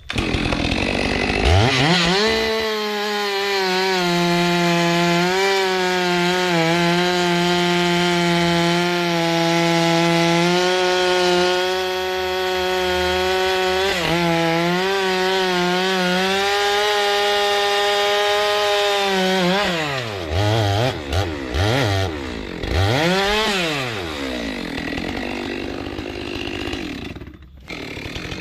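Two-stroke chainsaw revved up and held at high, nearly steady revs for about seventeen seconds while cutting wood, the pitch dipping slightly now and then. It is then revved up and down several times, settles at a lower pitch, and drops off briefly near the end.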